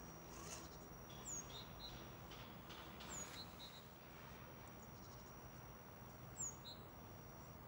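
Small birds giving short, high, falling chirps three times, each followed by a couple of softer notes, over faint outdoor background noise.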